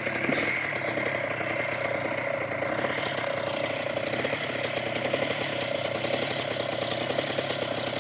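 Motorcycle engine idling steadily, a continuous even run of firing pulses with no change in speed.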